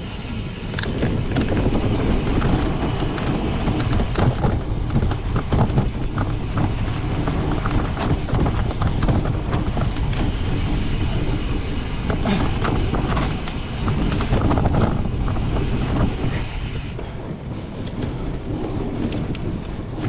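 Wind buffeting the microphone over a steady low rumble, with frequent rattling clicks from a cyclocross bike being ridden over rough ground.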